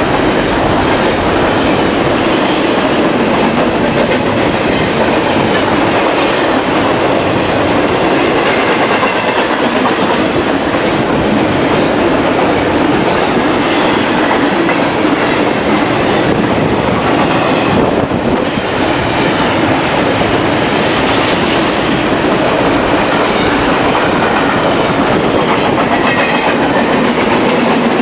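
Double-stack intermodal freight train passing close by: a steady, loud din of steel wheels running on the rails and the cars rattling as they roll through.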